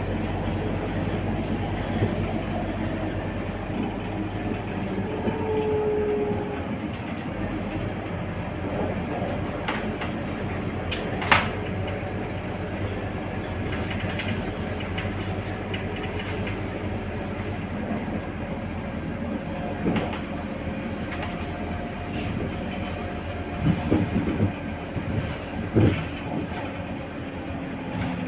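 Scania K230UB city bus running, heard from inside: a steady diesel drone with interior rattles. There is a sharp click about eleven seconds in and a few knocks near the end.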